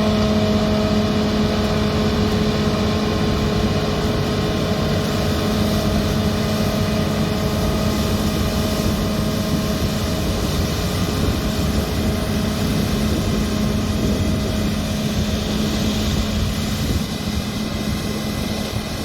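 Combine harvester running steadily at working speed, a constant engine and threshing drone with a strong low hum, fading out near the end.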